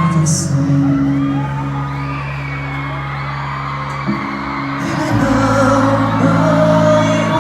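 Live concert music of held keyboard chords that change every second or few, with a stadium crowd screaming and whooping over it.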